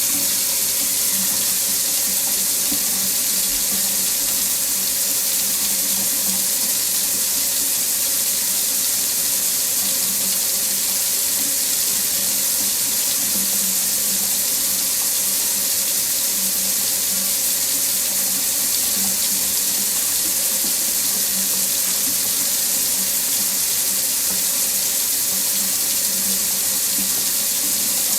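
Water running steadily from a faucet into a sink, a constant splashing hiss with a faint low hum beneath.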